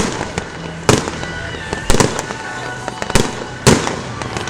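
Aerial firework shells bursting in a display finale: a loud bang roughly every second, about six in all, with crackling in between.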